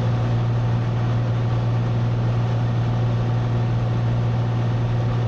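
Cessna 182's propeller engine drone in steady cruise, a constant low hum with a haze of noise over it, as heard through the cockpit intercom or headset audio.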